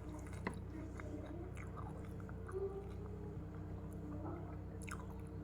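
Close-mic mouth sounds of a person chewing and biting raw vegetables, with short crunches and wet clicks, the sharpest about half a second in. A steady low hum runs underneath.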